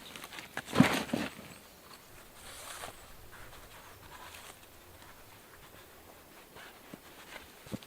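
Short rustling and light knocks, loudest about a second in, then faint scattered ticks near the end.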